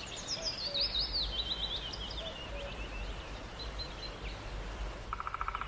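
A small songbird singing a quick run of high notes that step down in pitch over about three seconds, over a steady low background rumble. About five seconds in, a fast, even rattle begins.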